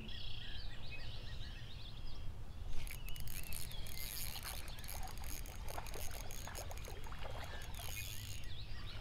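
Birds chirping and calling over a low wind-like rumble, with a run of sharp clicks and rustles from about three seconds in.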